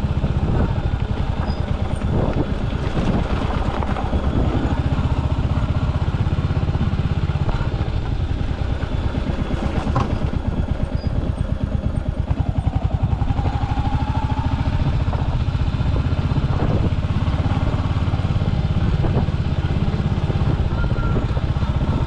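Royal Enfield Hunter 350's single-cylinder engine running steadily at low revs while riding off-road, with a few sharp knocks from the bike over rough ground.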